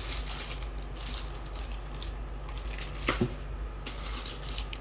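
Handling noise of vacuum cleaner attachments being moved about: faint rustling and light taps, with a short knock about three seconds in, over a steady low hum.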